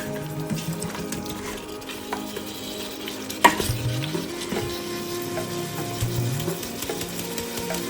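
Food sizzling as it fries in a pan while being stirred with a utensil, with a sharp clink of the utensil against the pan about three and a half seconds in.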